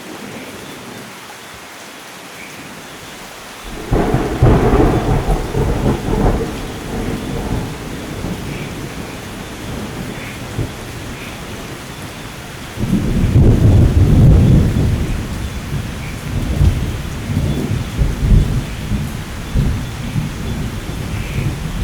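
Thunderstorm: steady heavy rain, with two loud rolls of thunder, the first cracking in about four seconds in and the second about thirteen seconds in, each rumbling on for several seconds before easing back into the rain.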